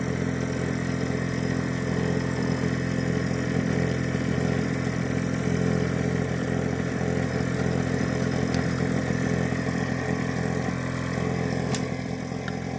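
Viair 12-volt air-ride compressor running with a steady motor hum that doesn't even sound good. It is building no pressure, with the gauge staying at 0 PSI and no leak, so the pump is worn out and not doing anything.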